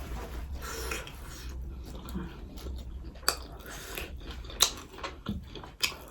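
Tableware clinking during a meal: a few sharp clicks in the second half, with softer scraping and rustling between them.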